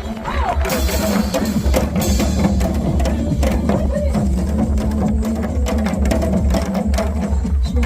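Janggu, Korean hourglass drums, being played in a steady rhythm of sharp strokes, with strong wind rumbling on the microphone.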